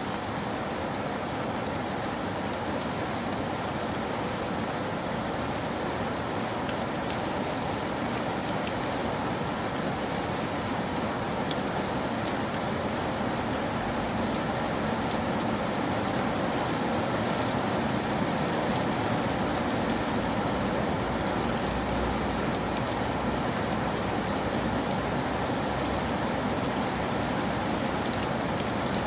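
Steady rain falling, a constant patter with scattered sharper drop ticks, growing slightly louder about halfway through.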